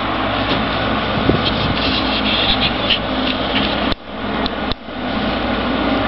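Strong squally blizzard wind buffeting the microphone in a loud, rough rush. It cuts out sharply twice around the middle and swells back.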